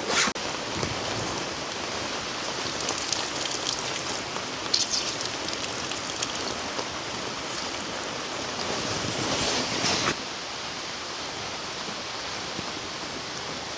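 Steady heavy rain, an even rushing hiss. There is a brief sharp noise right at the start, and the rain grows louder about nine seconds in, then drops back abruptly a second later.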